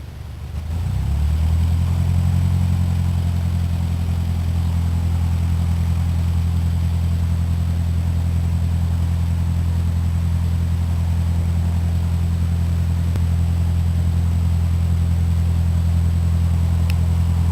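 Cessna 152's four-cylinder Lycoming engine and propeller, a steady low drone that comes up in power about a second in and then holds at constant high power.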